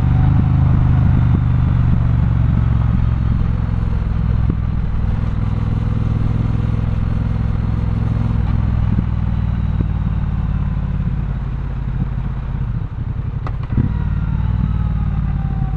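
Triumph Bonneville Bobber's 1200 cc parallel-twin engine running at steady, low revs while riding, its exhaust note heard from the rider's position. There is a brief sharp click about thirteen seconds in.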